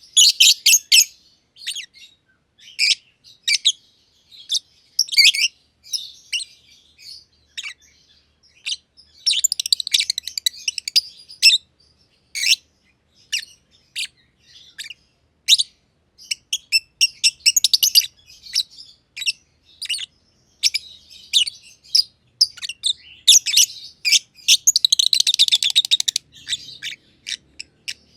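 Lovebirds (black-masked personata) giving rapid, high-pitched chirps in irregular bursts, with denser runs of chatter several times.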